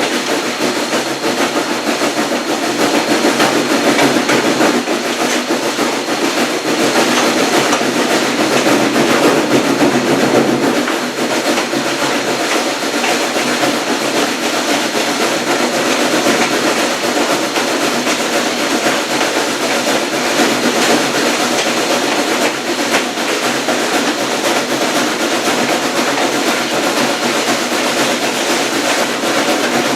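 Passenger coach of a steam train running on the rails: a steady rumble of wheels on track with continuous fine clatter, swelling a little louder for a few seconds near the start.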